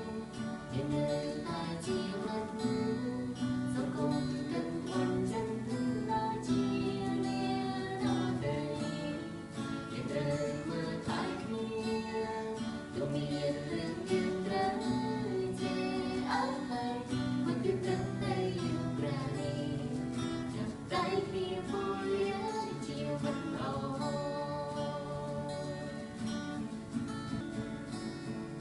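Acoustic guitar strummed through a song, with a voice singing the melody over it.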